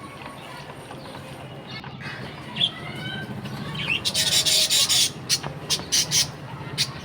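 Budgerigar giving a few short chirps, followed by about a second of loud scratchy rustling and then a string of sharp clicks, over a steady low hum.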